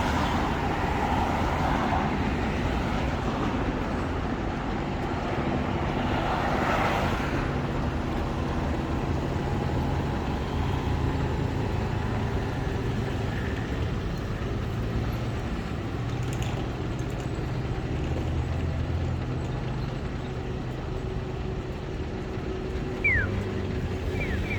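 City street traffic: a steady low engine hum from nearby vehicles, with cars passing at the start and again about six seconds in. A few short, high, falling squeaks come near the end.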